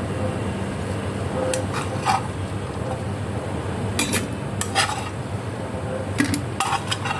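A cooking spoon clinking and scraping against a pan while stirring, about ten short knocks in small clusters, over a steady low hum.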